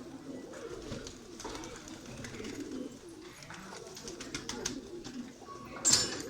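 Pigeons cooing steadily in a low murmur, with scattered small clicks and a loud, short clatter near the end.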